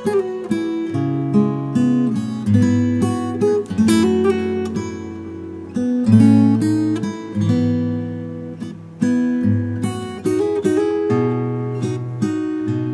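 Acoustic guitar playing slow, relaxing music, picked and strummed chords with notes ringing out over bass notes.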